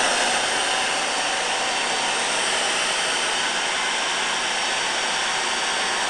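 Hoover Triple Duty 16-gallon wet/dry shop vac running as a leaf blower: its 11.6-amp motor makes a loud, steady rush of air with a thin, steady whine over it.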